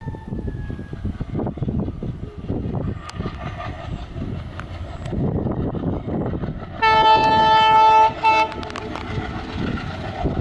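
WDP4B diesel locomotive and its express train running through at speed, a steady rumble and rattle of wheels on track. About seven seconds in the locomotive's horn sounds one long blast, the loudest sound, followed at once by a short second blast.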